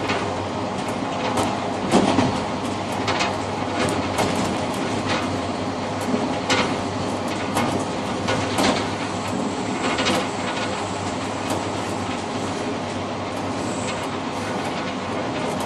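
Passenger train running, heard inside the rear car's cab vestibule: a steady rumble of wheels on rail with irregular clicks and knocks from the wheels over rail joints.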